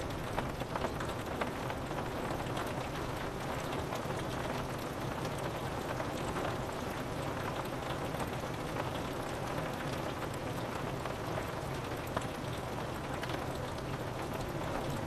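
Steady rain falling on window glass: an even wash of rain with many small, sharp drop ticks scattered through it.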